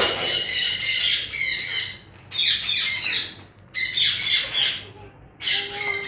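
Parrots squawking in a series of loud, harsh calls that come in runs of about a second with short gaps between. A single knock sounds at the very start.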